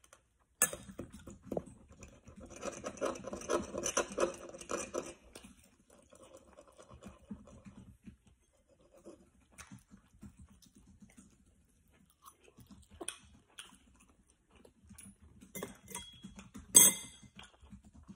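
A child chewing a dumpling close to the microphone, the wet mouth sounds busiest for the first few seconds, with scattered small taps of a metal fork on a dish and one sharper clink near the end.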